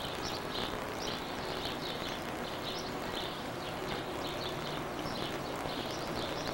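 Small birds chirping, short high chirps two or three times a second, over a steady background hiss.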